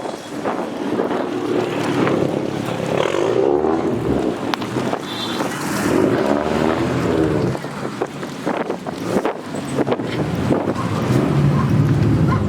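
Several car engines revving and accelerating away, their pitch rising and falling as they pass, with scattered sharp clicks.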